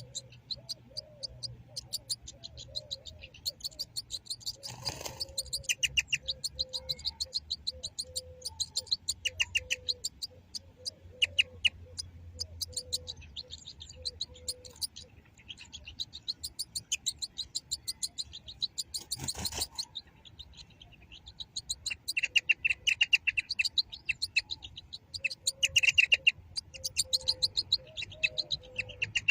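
European goldfinch singing: a fast, continuous twitter of high chirps broken by buzzy trills, with two brief bursts of noise, about five seconds in and again just before two-thirds through.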